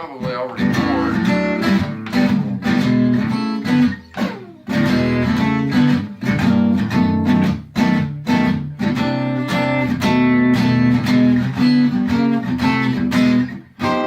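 Donner DAG-CE1 spruce-top acoustic-electric guitar strumming chords, heard amplified through a sound system from its XLR output.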